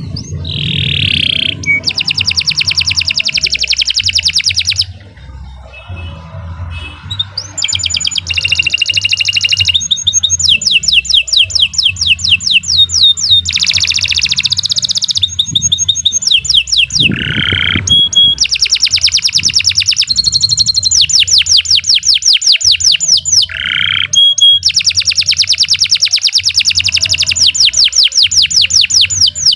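Domestic canary singing a long song: fast trills of rapidly repeated high notes in runs of a few seconds each, broken by short downward-sweeping notes. The song pauses briefly about five seconds in.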